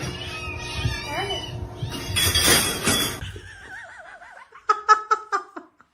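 A cat's short meows over a noisy background, with a loud rushing noise about halfway. Then, after a quieter wavering sound, a person laughs in quick bursts near the end.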